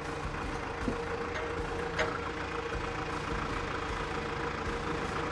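Heavy equipment engine running steadily with a constant hum, and a couple of faint clicks.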